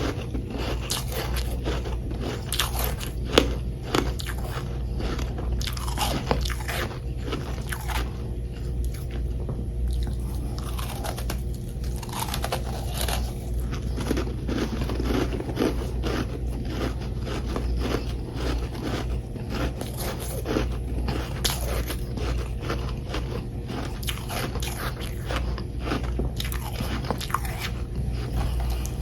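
Close-up biting and chewing of chunks of frozen humidifier frost: continuous dense, irregular crunching, over a steady low hum.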